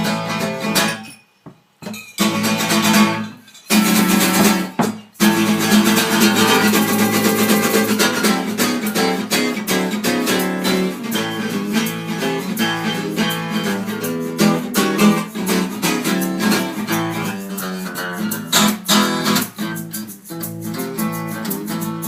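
Acoustic guitar strummed in a steady rhythm, an instrumental break between sung verses. It cuts out briefly a few times in the first five seconds.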